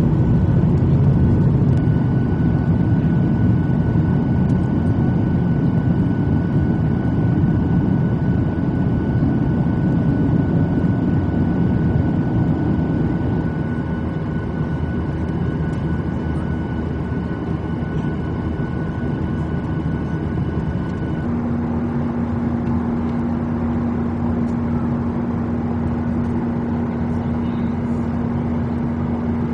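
Boeing 737-800 cabin noise: the steady rumble of the jet engines and airflow, heard from a passenger seat. The rumble eases slightly about halfway through. About two-thirds in, a steady low hum sets in and a faint high tone stops.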